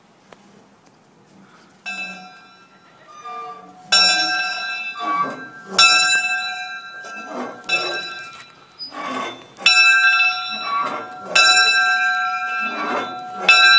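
A large metal bell rung by hand, struck about six times at uneven intervals, each stroke ringing on and fading before the next.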